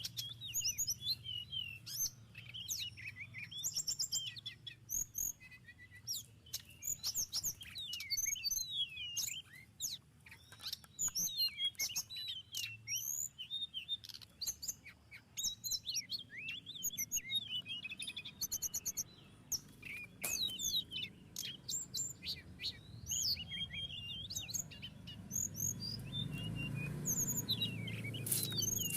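Tledekan laut songbird singing a busy, continuous run of quick chirps and twittering notes, with scattered sharp clicks. A low hum sits beneath it and grows louder near the end.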